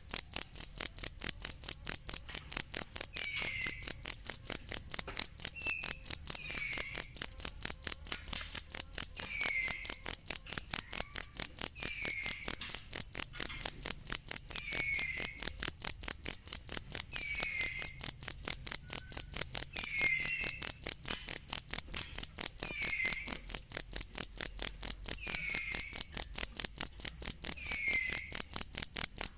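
Cricket chirping steadily, high-pitched evenly spaced chirps about four a second that never let up. Faint short falling notes sound lower down about every two and a half seconds.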